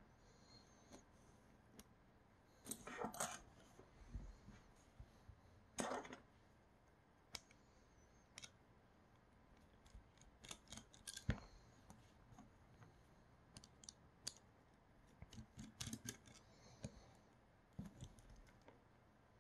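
Small parts of a Creality Sprite 3D-printer extruder clicking and tapping as they are handled and taken apart with small tools: scattered light clicks, with short handling noises about three and six seconds in and runs of quick clicks later on.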